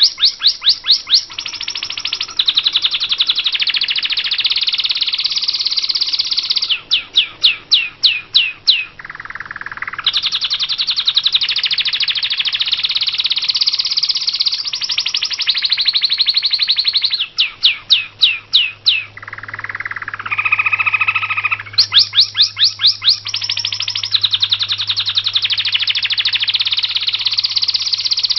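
White-rumped shama (murai hutan) singing: runs of quick, sharply falling whistled notes, several a second, alternate with long stretches of dense, rapid chattering trills. This is the kind of song used as 'isian' to train contest birds.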